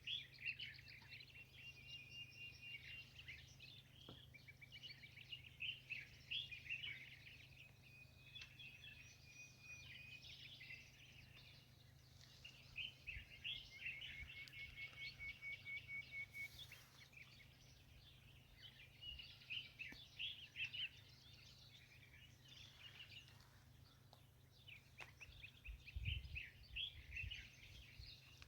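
Faint birdsong: several small birds chirping and trilling over a low, steady background hum, with a brief low thump near the end.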